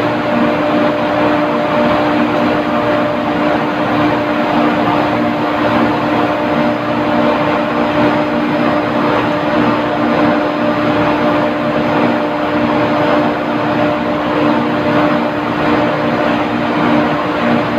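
Loud, steady machinery running with a constant droning hum and no change throughout.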